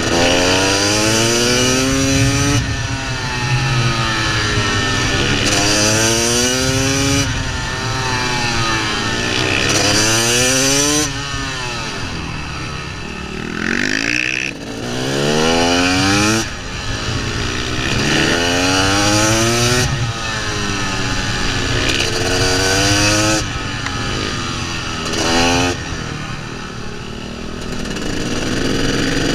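KTM 300 two-stroke single-cylinder engine heard from on the bike, revving hard and rising through the gears in quick sweeps, then dropping back off the throttle several times into corners before pulling again.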